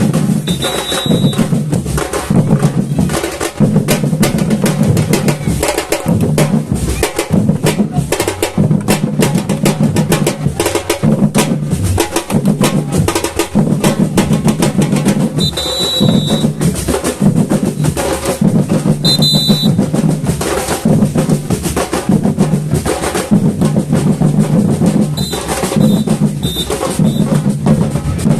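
Samba batucada percussion ensemble playing a steady, dense groove: deep bass drums under fast snare and other drum strokes, with a few short high tones over it.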